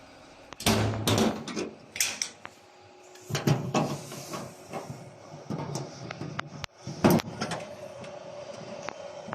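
A series of irregular knocks and clatters, the loudest about a second in and at about seven seconds.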